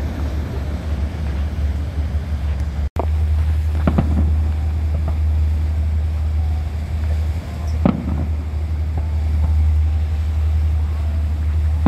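Wind buffeting the microphone over the steady low rumble of a river cruise ship's engine, with a few sharp bangs of fireworks, about four and eight seconds in.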